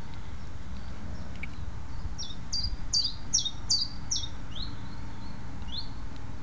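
A songbird singing a phrase of about half a dozen high notes, each sliding downward, starting about two seconds in and lasting a few seconds, over a steady low background noise.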